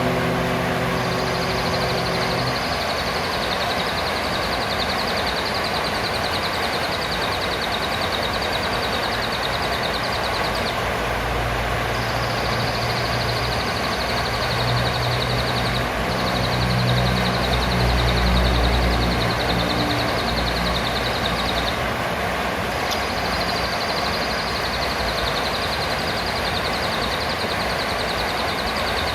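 Blue-crowned hanging parrot (serindit) giving long, high-pitched rapid trills in four runs of several seconds each, over a steady loud hiss. A low rumble rises and fades in the middle.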